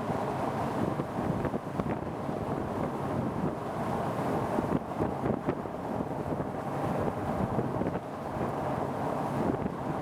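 Strong wind buffeting the microphone in gusts, a dense low rumbling noise from storm winds near a tornado.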